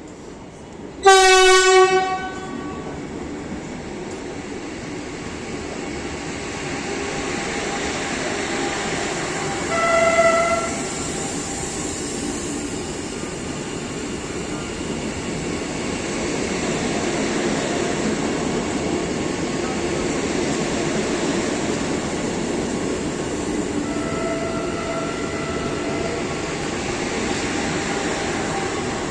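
Train passing at speed, a steady rushing rumble that builds and holds. A loud horn blast sounds about a second in, a shorter horn blast around ten seconds in, and a fainter horn tone is held for a couple of seconds near the end.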